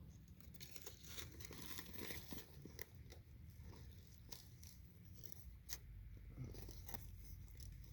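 Faint tearing and crinkling with scattered small crackles as a burrito is pulled apart and handled.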